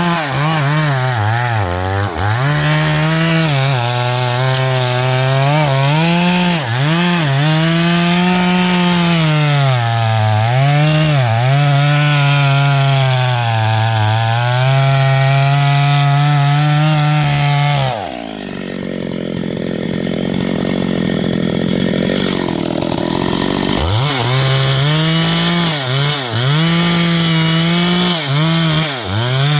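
Chainsaw running under load in wood, its engine note wavering up and down as the cut loads it. About two thirds of the way through, the note falls and quietens for several seconds, then comes back up.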